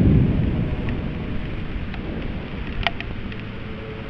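Low rolling thunder, loudest at the start and slowly fading, over a steady hiss of rain, with a few short sharp ticks.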